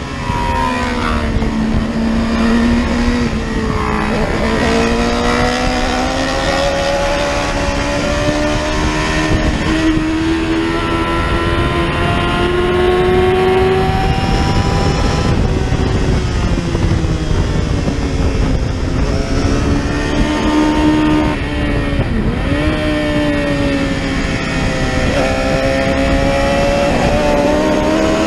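Lightweight-class racing motorcycle engine at race pace: the pitch climbs for several seconds at a time as the bike accelerates, then drops sharply three times as it slows for corners.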